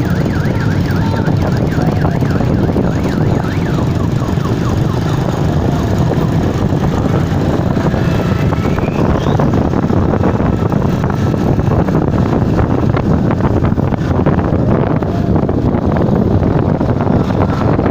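Many motorcycle engines running together in a parade, a loud continuous din. Short rising siren-like whoops sound in the first second, and one more rising tone about eight seconds in.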